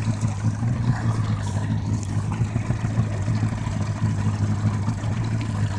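Yamaha 115-horsepower two-stroke outboard engine idling steadily with an even, low hum.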